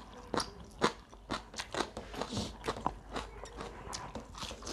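Close-up eating sounds: chewing with many irregular sharp crunches and mouth clicks, several a second, from a meal that includes crisp-fried chicken.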